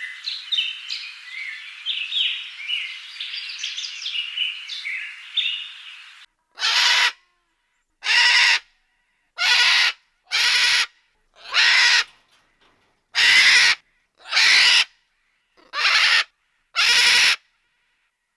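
A chorus of many small birds chirping and twittering, which cuts off about six seconds in. Then a large bird gives a series of nine loud, harsh calls, each under a second long, about one every second and a half.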